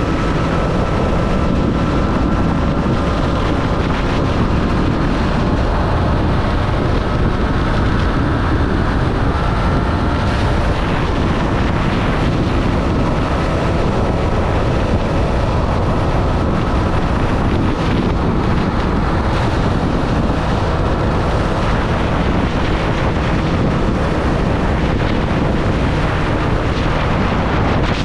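Triumph Street Triple motorcycle's inline three-cylinder engine running at a fairly steady speed while riding, mixed with heavy wind noise on the microphone.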